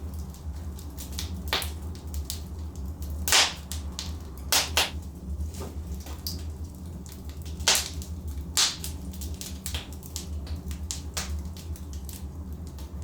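Wood fire burning in a fireplace, crackling with irregular sharp pops, the loudest a few seconds in, twice in quick succession a little later, and twice about eight seconds in, over a steady low rumble.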